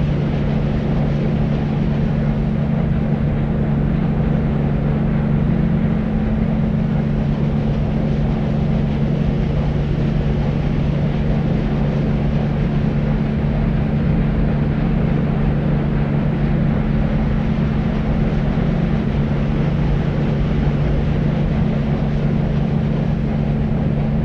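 Deep white noise for baby sleep: a steady, even low rumble with a constant low drone in it and little hiss up high, unchanging throughout.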